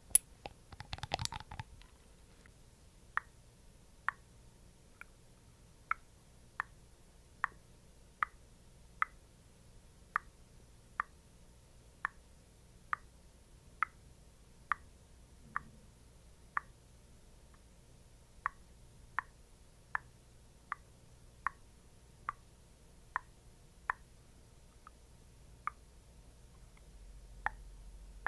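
Slow, evenly spaced soft sticky taps, about one a second, as of patting thick skincare product, with a short cluster of crackly rustling about a second in.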